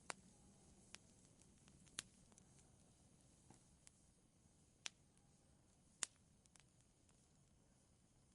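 Wood fire crackling faintly: sparse, sharp pops and snaps, roughly one a second, over a soft low hiss, the loudest pop about six seconds in.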